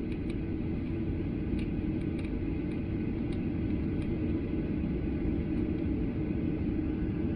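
Steady low cabin rumble inside a Boeing 737-800 airliner, its engines and airframe running with no change in pitch or level.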